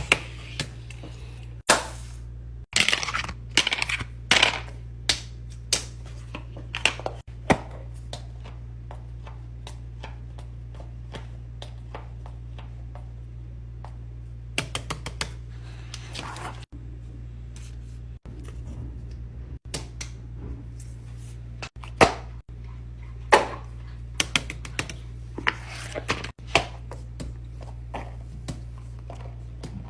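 Irregular sharp clicks and taps of small hard objects being handled, some in quick clusters, over a steady low hum.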